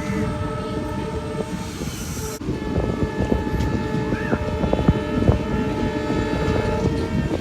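Diesel-hauled passenger train running, with a steady droning tone throughout. The sound changes abruptly about two and a half seconds in; after that, the wheels clack over rail joints in quick, irregular knocks.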